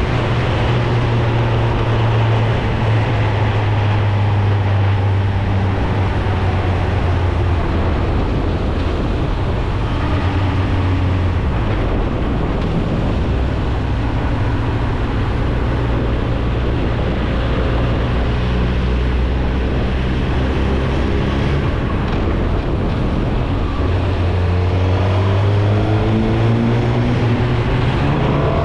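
2016 Suzuki GSX-R1000's inline-four engine through its stock exhaust, running steadily on the move, its note shifting a few times before rising as the bike accelerates near the end.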